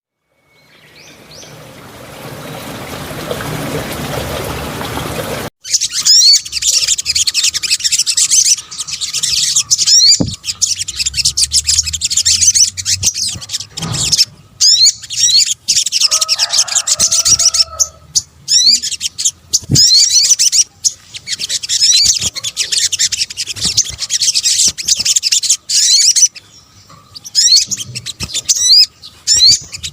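Olive-backed sunbird song: rapid, high-pitched twittering trills in repeated bursts with short gaps, after about five seconds of rising hiss that cuts off. A brief lower-pitched call is heard about sixteen seconds in.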